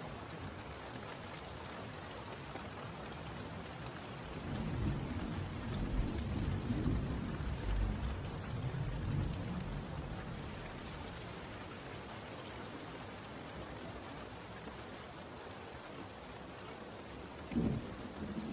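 Steady rain falling, with a long low rumble of thunder that swells up about four seconds in and dies away over the next several seconds. A short low sound stands out near the end.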